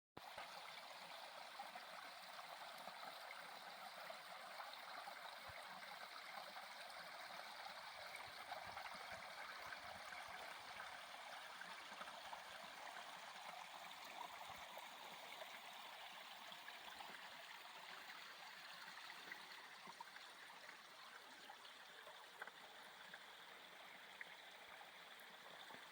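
Small clear mountain stream trickling and splashing down over rocks, a faint, steady running of water. It is flowing with water from recent overnight rain.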